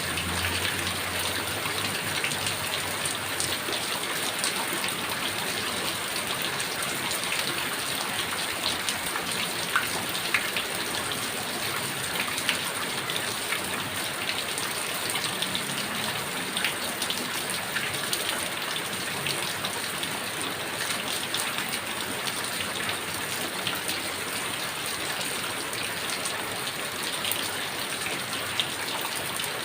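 Heavy rain falling steadily: a dense, even hiss with many individual drops ticking on a hard surface.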